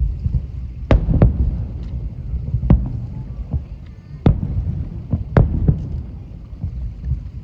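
Aerial firework shells bursting over a lake: a string of sharp booms, about eight in all and irregularly spaced, over a continuous low rumble of echoing reports.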